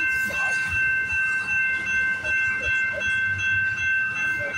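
Freight cars of a CPKC train rolling past close by: a steady low rumble of steel wheels on rail, pulsing unevenly, with a steady high-pitched ringing tone held over it.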